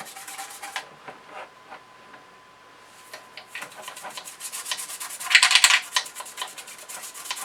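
Toothbrush scrubbing softened grease and grime off small metal parts: quick, scratchy brush strokes, easing off briefly near the start, with one louder, longer rasp about five and a half seconds in.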